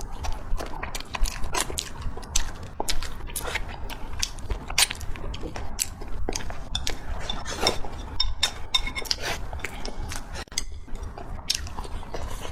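Close-up mouth sounds of a person eating: wet chewing, biting and lip smacks, with many sharp irregular clicks, several a second.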